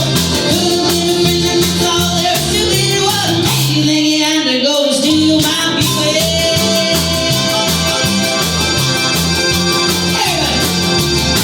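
A live band playing a rock song: guitar over bass and drums with a steady beat. The bass drops out briefly about four seconds in.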